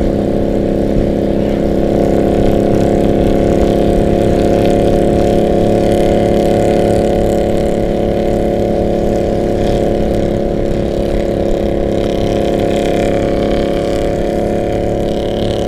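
Harley-Davidson V-twin engine and exhaust running at a steady cruise, heard from a motorcycle riding close behind, with wind rumble on the microphone.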